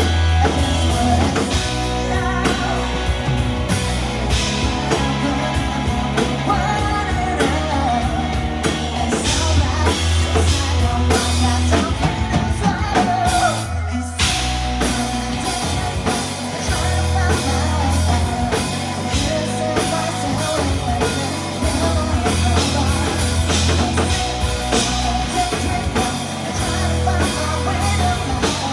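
Live rock band playing with a singer, drum kit and electric guitar over bass, with a short break in the playing about halfway through.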